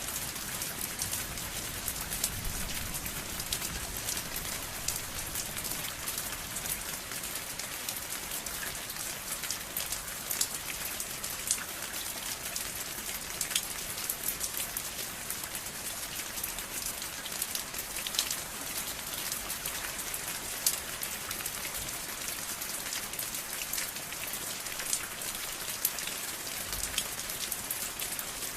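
Steady rain falling, with dense hiss and many separate drops pattering on a surface.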